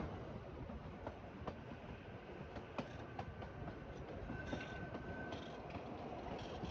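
Kalka–Shimla narrow-gauge toy train running along the track: a steady rumble with irregular wheel clicks, and a brief high-pitched tone about four and a half seconds in.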